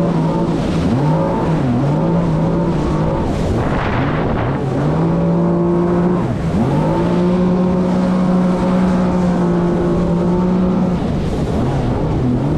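Jet ski engine running under way, its pitch dipping and climbing back several times as the throttle is eased off and opened again.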